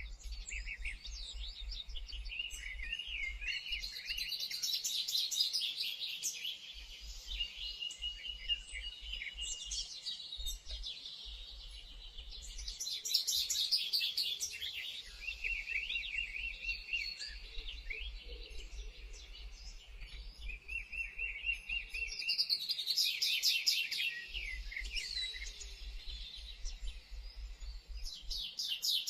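Several songbirds singing and calling at once: overlapping chirps, whistles and rapid trills.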